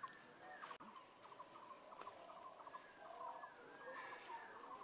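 Faint birds chirping in the background, with short repeated chirps and small gliding calls over otherwise near silence.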